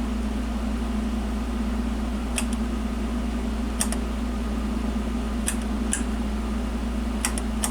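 Steady low hum with a few scattered sharp clicks, consistent with the selector switches of a CRT tester being turned between tests.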